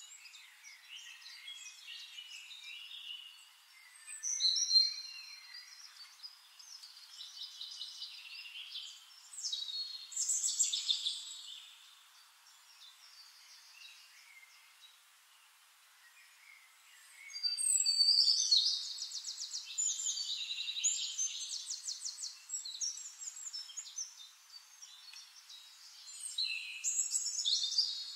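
Small songbirds chirping and trilling in several high, rapid bursts. The loudest stretches come about 4 seconds in, around 10 seconds, from about 18 to 22 seconds, and again near the end.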